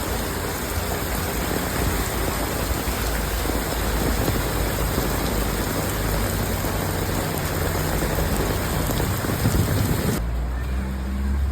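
Heavy rain pouring down in a steady hiss. Near the end the sound changes abruptly to a low rumble.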